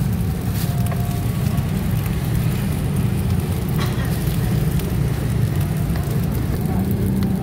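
Street-stall wok cooking: a steady low gas-burner rush with frying sizzle, and a few light clicks.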